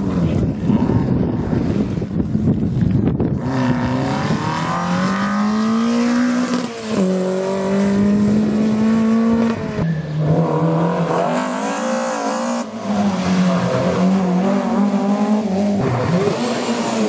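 Rally car engine at full throttle, its note climbing and falling back with each gear change. The biggest shifts come about 7 and 10 seconds in, after a few seconds of rushing noise at the start.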